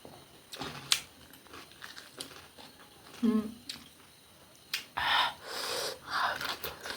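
Close-miked mukbang eating: chewing with sharp mouth clicks, a short hummed 'mm' about three seconds in, and loud breaths through the mouth and nose near the end.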